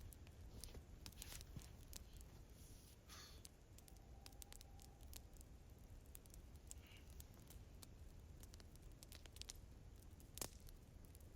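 Near silence, with faint scattered clicks and crackles over a low background hum, and one sharper click about ten seconds in.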